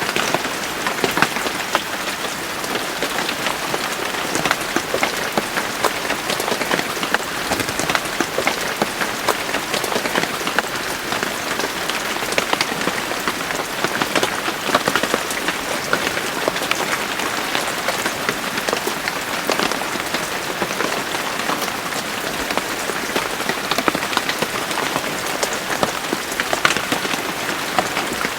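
Steady rain falling, many drops ticking on surfaces in a dense, even patter.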